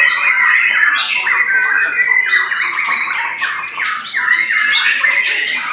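Several caged white-rumped shamas singing at once: dense, overlapping rapid whistled phrases and harsh chattering calls with no break.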